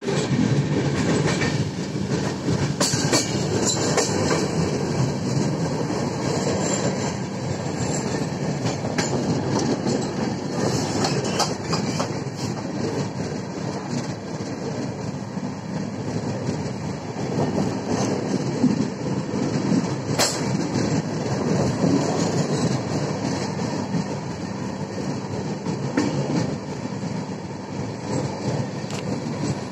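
Indian Railways passenger train running along the track, heard from the moving coach: a steady rumble of wheels on the rails with a few sharp clicks now and then.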